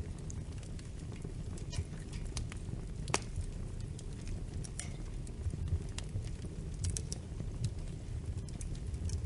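Wood fire crackling in a fireplace: scattered sharp pops and snaps over a steady low rumble of the flames, with the loudest pop about three seconds in.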